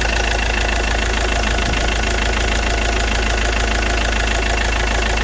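Iveco Daily van's diesel engine idling steadily.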